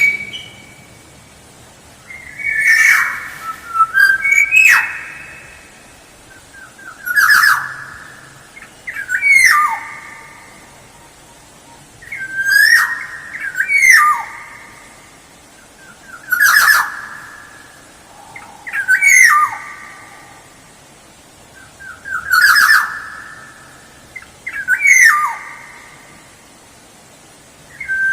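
Black-naped oriole (kepodang) calling over and over, a loud fluty whistled phrase that ends in a falling slur, repeated about every two to three seconds.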